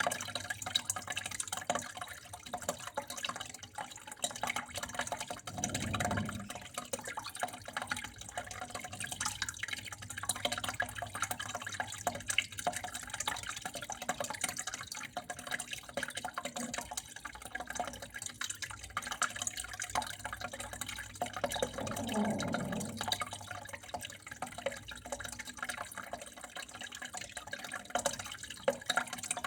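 Water flowing and trickling steadily, with many small drips and splashes. Two brief deeper swells come about six seconds in and again past twenty seconds.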